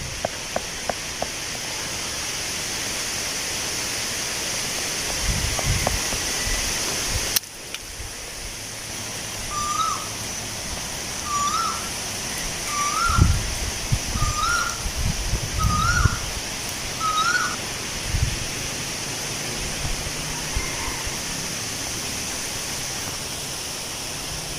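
Wind blowing through tree leaves as a steady rustling hiss, with gusts buffeting the microphone now and then. Partway through, a bird calls six times, about once a second, each a short rising-and-falling note; the sound cuts abruptly about a third of the way in.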